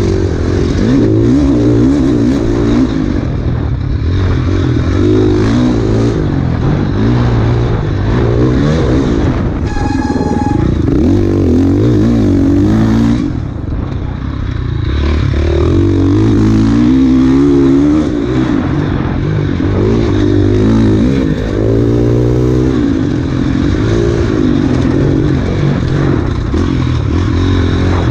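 Enduro dirt bike engine revving up and down again and again as it is ridden hard through a race course, briefly backing off about halfway through. A short high tone sounds about ten seconds in.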